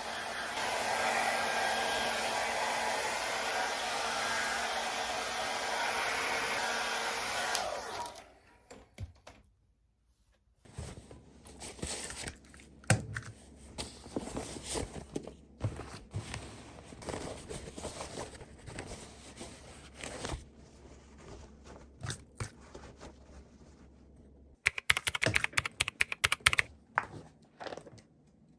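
Steady whoosh of a small motor and fan, running for about eight seconds and then cutting off. After a short pause come scattered light taps and clicks, with a quick run of clicking near the end.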